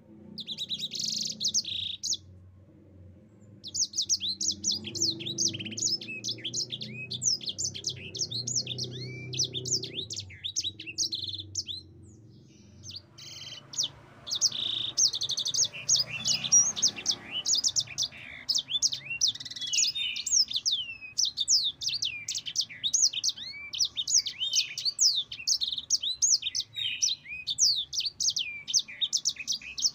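Mozambique canary singing long, rapid, twittering song phrases of quick high trills and slides, breaking off briefly about two seconds in and again around ten seconds in, then singing almost without pause to the end.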